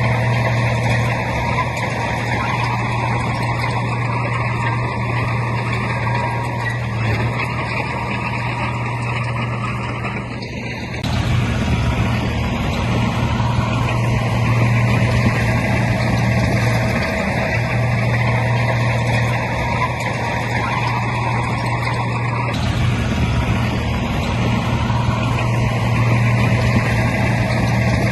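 Heavy diesel engine of earthmoving machinery running steadily, a constant low drone under a wide mechanical noise. The sound shifts abruptly about eleven seconds in and again about twenty-two seconds in.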